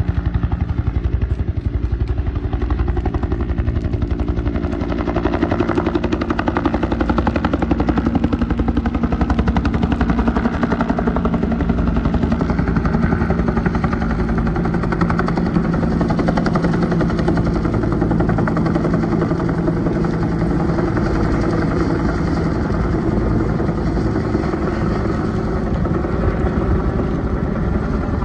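Military helicopter in flight: a steady rapid rotor beat over the engine's continuous tone.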